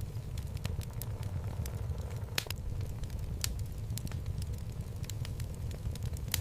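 Wood logs burning in a fireplace: a steady low rumble of flame with irregular sharp pops and crackles of the burning wood, the loudest about two and a half and three and a half seconds in.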